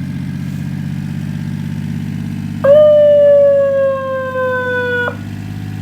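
A mini fire truck's small engine idles steadily. About two and a half seconds in, its digital siren unit sounds one loud, held electronic tone that sags slightly in pitch and cuts off suddenly after about two and a half seconds.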